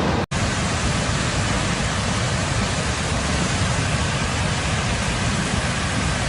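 Steady rush of floodwater flowing along a street. There is a brief dropout about a quarter second in.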